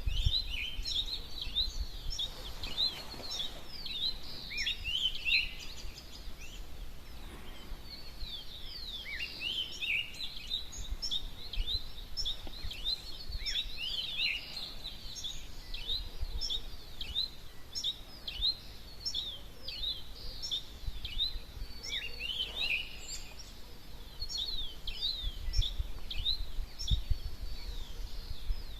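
Dawn chorus: many birds singing at once, a dense, unbroken stream of short, high chirps and quick sliding notes, over a low rumble.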